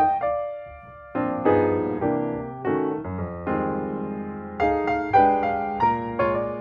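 Background piano music: single notes and chords struck and fading, with a short lull about a second in.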